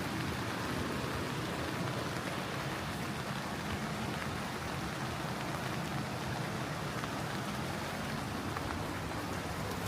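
Steady rain falling, an even hiss of drops with a few faint ticks of single drops.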